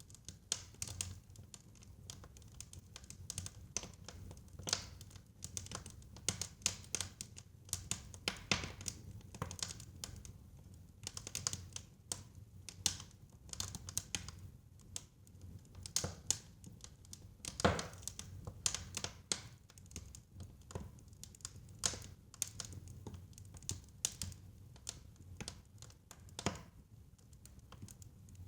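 Fire crackling in a fireplace: irregular sharp pops and snaps over a low steady rumble, with one louder pop a little past halfway.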